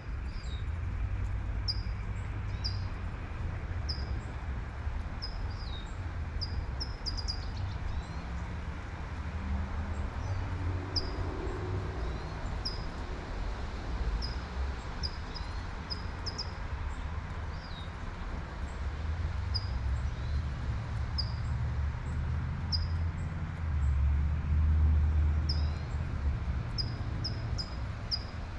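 Light rain hissing steadily while a bird chirps over and over in short high notes about once a second. A low traffic rumble sits beneath, swelling loudest a few seconds before the end as a vehicle passes.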